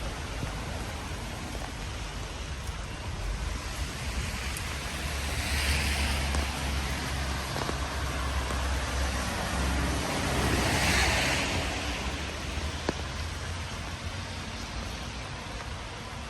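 Steady rain falling, with two cars passing on the wet road: their tyre hiss swells up and fades away, about six and eleven seconds in.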